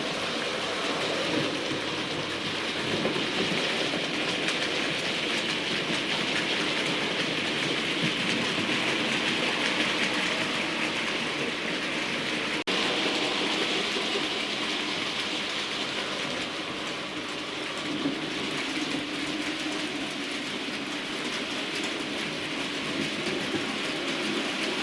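Bachmann A1 Pacific model locomotive running on model railway track: a steady whirring, rattling noise from its motor and wheels on the rails, with a brief break about halfway through.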